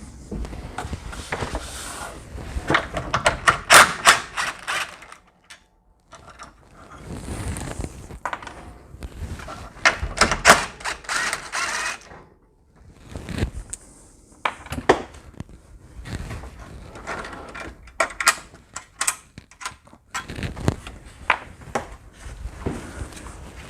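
Tools and hardware being handled and knocked about, in several separate bursts of quick clicks, rattles and knocks.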